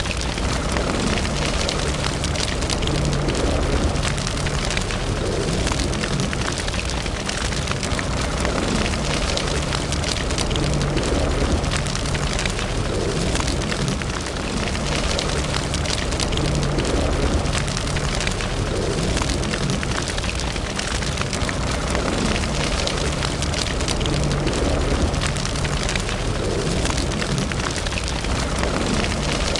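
Wood fire burning in a fireplace: continuous crackling with frequent small pops over a steady low rumble.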